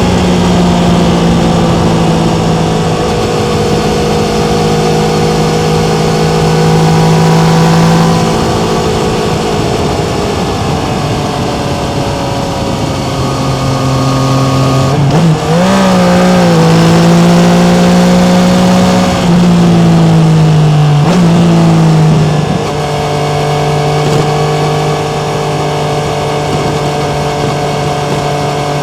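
Yamaha MT-09's three-cylinder engine running under way at steady revs. In the middle the revs sag, then drop and climb sharply several times with short dips in loudness, as with gear changes, before settling to a steady pull again.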